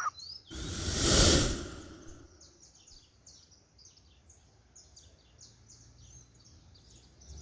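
A loud rushing hiss that swells and fades over about a second and a half near the start, followed by faint, short, high bird chirps scattered through the rest.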